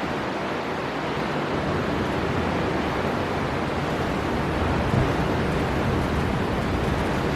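Storm wind blowing with sea surf, a steady rush of noise whose low rumble strengthens after about two seconds.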